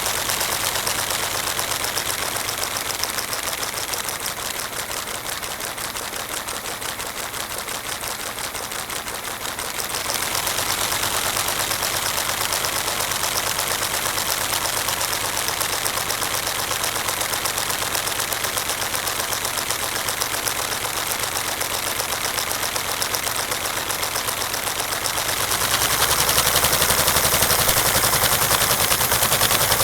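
A vacuum-powered LEGO four-cylinder engine running, a fast, even clatter of plastic parts with a hiss behind it. It gets louder about ten seconds in and again a few seconds before the end, when a low hum joins it.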